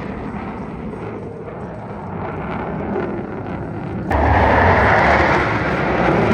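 Jet noise from the Thunderbirds' F-16 fighters: a steady, rushing roar that eases a little, then jumps suddenly louder about four seconds in as a jet passes close.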